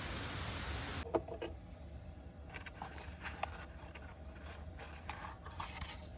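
A steady hiss cuts off abruptly about a second in, followed by scattered soft scrapes, clicks and light knocks of small objects being handled.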